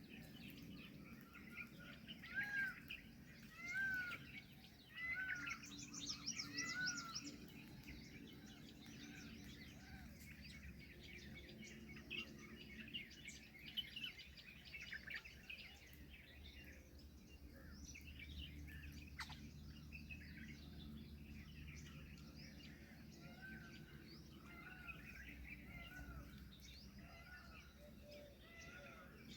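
Several birds calling and chirping together, with a run of louder, arching calls in the first seven seconds, then thinner chirping over faint background noise.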